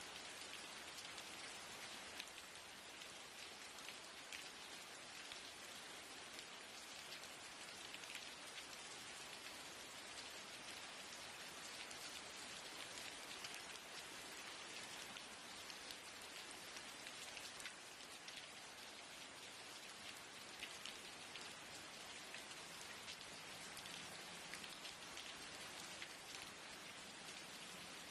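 Steady rain falling on a window, with a dense patter of fine drop ticks.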